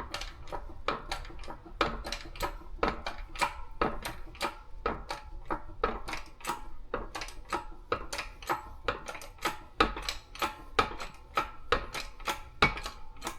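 A rapid, irregular run of sharp metallic clicks and taps, about three to four a second, with a brief ring after each: metal tools and parts being handled at a shop press.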